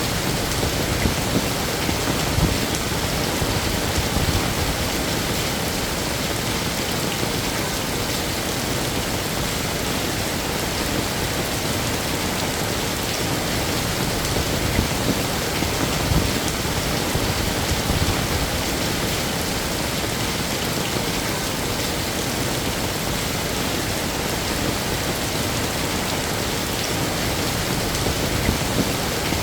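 Heavy rain falling steadily on hard surfaces, with a constant dense hiss and scattered louder drops.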